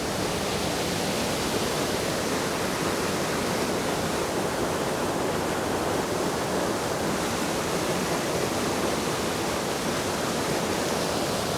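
Waterfall of about 20 feet, water rushing steadily over the drop in a heavy, rain-swollen flow.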